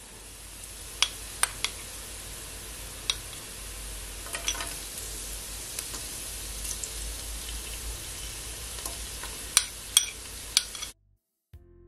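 Chopped onions, scallion, garlic and ginger sizzling in hot oil in a pot: a steady frying hiss with a few sharp crackles scattered through, at the start of the sauté. It cuts off abruptly near the end.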